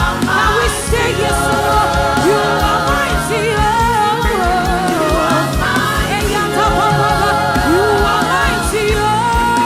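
Gospel worship singing with a band: several voices hold long notes and slide between pitches over steady accompaniment.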